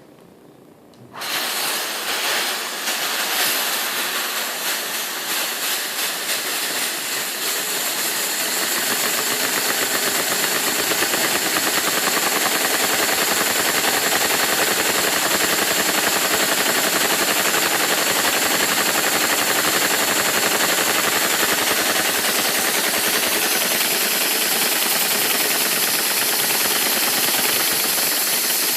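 A vacuum cleaner switches on about a second in, its suction hissing loudly, and drives a Lego V-twin vacuum engine. The engine's plastic pistons and valves set up a rapid clatter that quickens and then settles into a steady run.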